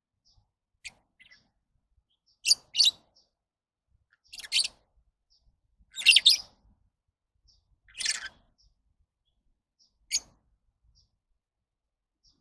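Lovebirds calling: about eight short, high-pitched chirps spaced a second or two apart, the loudest about six seconds in, with fainter little chirps between them.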